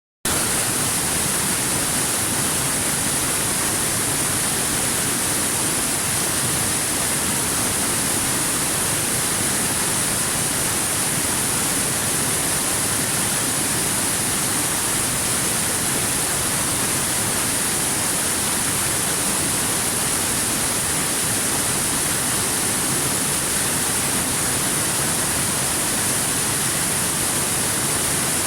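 Waterfall: an unbroken, even rush of falling water that holds steady in level throughout.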